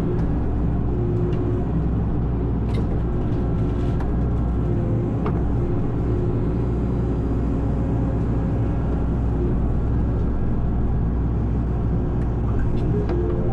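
Excavator's diesel engine running steadily, with a few sharp clicks in the first half.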